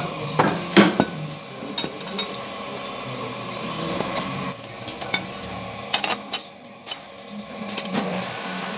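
Metal tools and parts clinking and knocking against each other now and then, over a steady hum.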